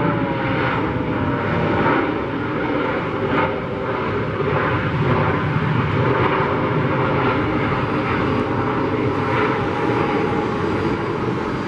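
Jet airliner engines running as a Southwest Boeing 737 rolls out after landing. A whine falls in pitch in the first second, then a steady roar with a steady whine.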